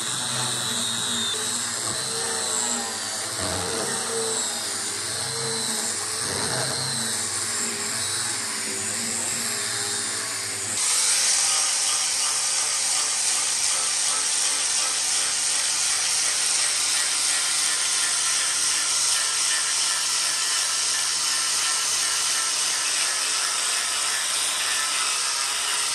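Power tools running. For about the first eleven seconds a motor's pitch wavers up and down as it is loaded; then it switches abruptly to a steadier, higher-pitched machining noise.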